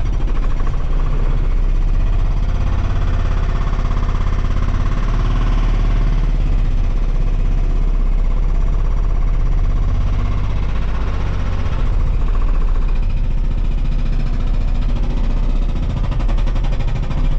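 Volvo 235EL excavator working hard under hydraulic load, its engine running loud with a rapid, even rattling vibration throughout. The sound starts and stops abruptly.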